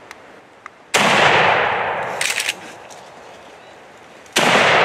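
Two gunshots about three and a half seconds apart, a hunter shooting a coyote that came to the call; each shot is followed by a long echo that fades over a second or more. A short clatter of clicks comes between them.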